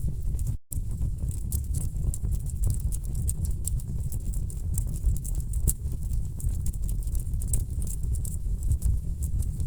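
Wood fire burning in a fireplace: dense, irregular crackles and sharp pops of burning logs over a steady low rumble. The sound cuts out completely for a split second just over half a second in.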